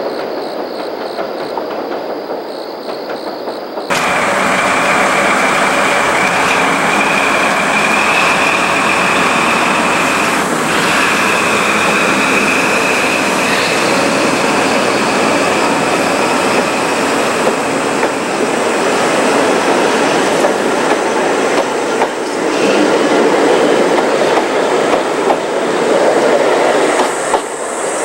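Old-type passenger coaches rolling by on the rails: a steady rumble and clatter of wheels, with a high steady wheel squeal through the first half. A quieter, more distant train rumble fills the first few seconds before the sound jumps up close, and it swells again near the end as the last coach passes.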